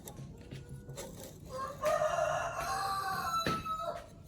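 A rooster crowing once: one long call of about two and a half seconds, starting about a second and a half in.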